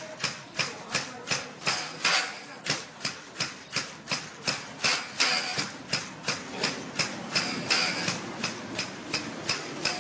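Traditional cotton-fluffing bow being played: its taut string is struck with a wooden mallet in a steady rhythm of about three strikes a second. Each strike snaps, then rings briefly and fades.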